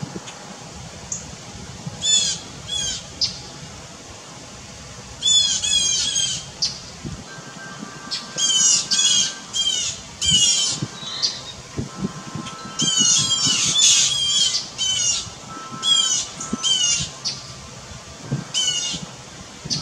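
Birds giving harsh, scolding squawks in repeated bursts of several calls, mobbing a perched short-tailed hawk that has just made a kill.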